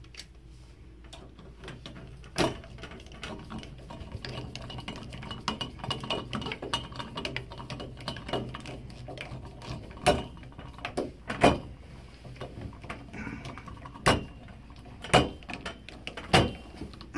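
Small clicks, taps and knocks of trim parts and tools being handled as a Kohler tub-and-shower valve's cover and handle are put back on, with about six sharper knocks, most of them in the second half.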